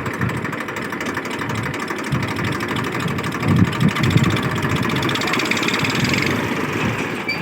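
Old tractor engine running steadily, a little louder from about halfway through.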